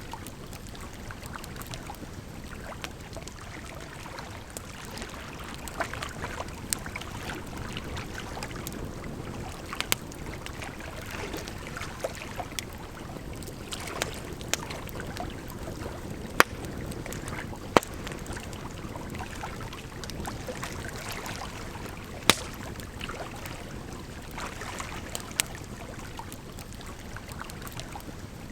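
Wood campfire crackling, with sharp pops every few seconds, over a steady rush of water.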